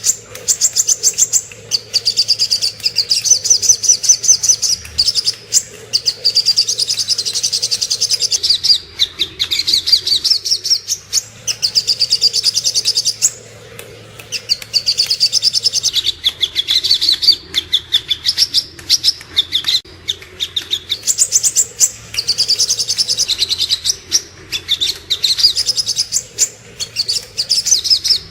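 Brown-throated sunbird (sogok ontong) singing: loud, rapid high-pitched chirping trills in runs of one to three seconds with short breaks between them.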